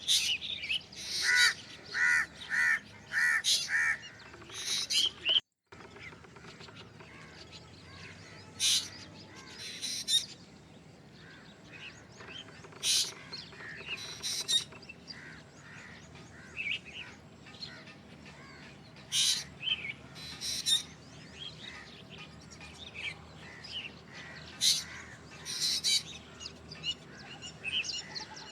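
Black drongo calling: a quick run of harsh, evenly repeated notes, about one and a half a second, for the first few seconds. After a brief dropout come scattered short, sharp high calls, singly and in pairs, every few seconds.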